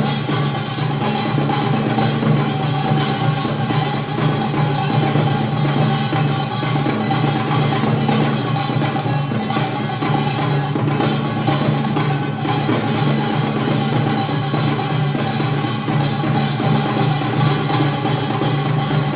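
Korean traditional percussion ensemble (janggu hourglass drum, kkwaenggwari small gong, buk barrel drum, jing gong) playing a fast, dense rhythm, with steady held pitched tones underneath.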